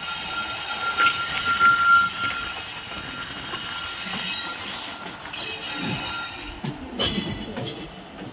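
Train running along the track, its wheels squealing in a high metallic tone that is loudest about one to two seconds in, over a steady rumble. A few sharp clanks come near the end.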